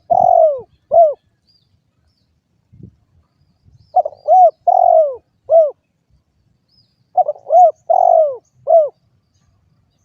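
Spotted dove cooing: the end of one phrase at the start, then two more phrases of four coos each, about three seconds apart. In each phrase the third coo is the longest, and each note falls in pitch.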